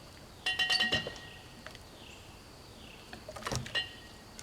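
Metal clinking and clanking with a short ring, from steel fittings on a sawmill log carriage being worked with a cant hook: a quick run of clinks about half a second in and another shortly before the end.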